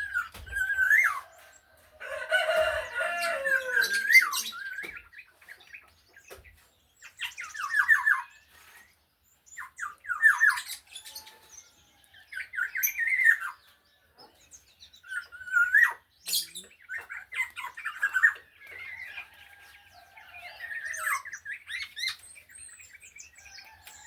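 Black-naped oriole (kepodang) singing in short phrases every couple of seconds: whistled notes and quick runs of repeated chattering notes, with a harsh, squawky passage a few seconds in.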